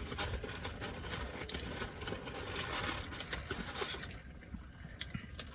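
Close-up eating sounds: chewing with a dense run of small, irregular clicks and crackles that thins out about four seconds in.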